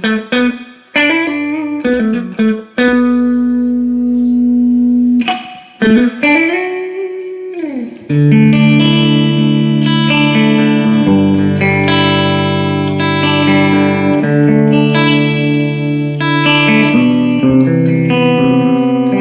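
Electric guitar played through a Fender Deluxe 112 Plus combo amp: single notes and a held note with a bend up and back down, then sustained ringing chords from about eight seconds in. This is a sound test after repairing the amp's random cut-outs.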